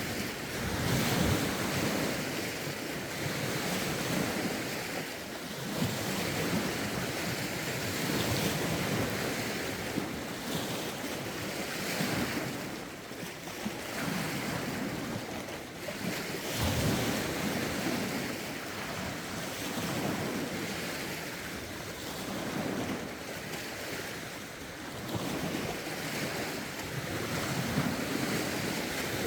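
Wind-driven lake waves washing in, swelling and easing every few seconds, with wind gusting across the microphone.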